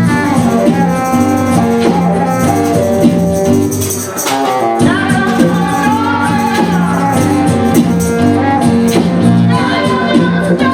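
Live band music: a small group with guitar and percussion playing, with a singing voice or lead line entering about halfway through.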